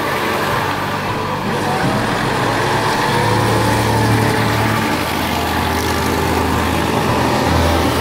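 Vintage cars driving slowly past one after another, their engines running steadily: first a Citroën Traction Avant, then a Citroën 2CV with its air-cooled flat-twin, which grows louder about three to five seconds in.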